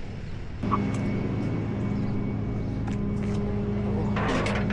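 Tow truck's engine running with a steady, even hum that comes in abruptly about half a second in.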